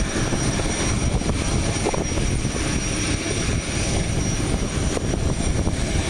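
Storm wind buffeting the microphone with rain, a loud steady rumbling roar that drowns out a voice.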